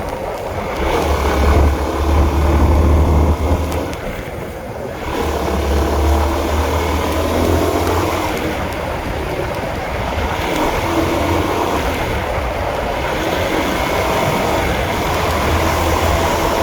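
Honda CB150R motorcycle's single-cylinder engine running on the move, with a low rumble that swells three times.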